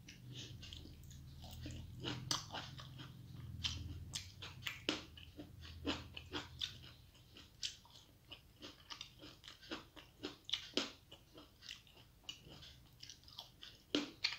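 Close-miked chewing of rice and crisp fried vegetables, a steady run of sharp, irregular crunches and wet mouth clicks.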